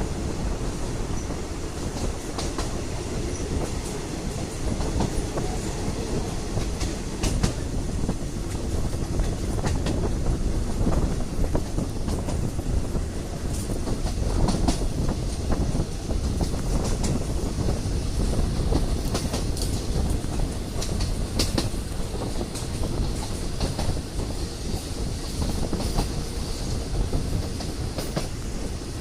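Passenger train carriage rolling along the track: a steady low rumble with irregular clicks and knocks of the wheels over rail joints.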